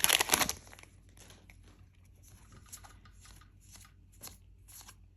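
Foil booster-pack wrapper crinkling as it is torn open, stopping about half a second in. It is followed by faint, short rustles and taps of trading cards being slid and handled.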